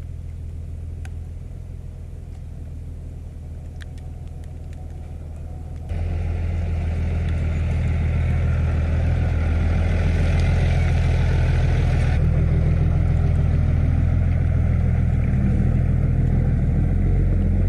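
Truck driving slowly over a rough off-road trail: a steady low engine hum with road noise and a few light rattles. About six seconds in it suddenly becomes louder.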